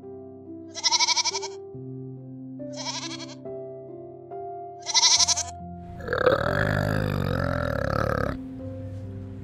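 A young goat bleats three times over background music, each bleat short and wavering, about two seconds apart. About six seconds in comes a deep, rough, drawn-out call from an orangutan, lasting about two seconds.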